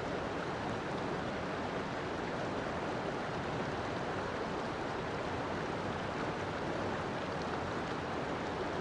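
River water flowing steadily, an even rushing with no breaks or separate splashes.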